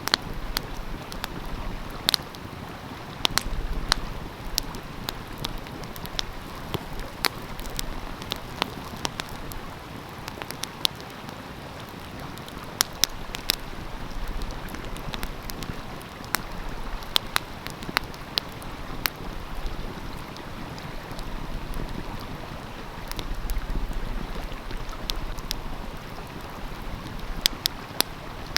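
Wood fire crackling, with frequent sharp, irregular pops and snaps, over the steady rush of a flowing stream.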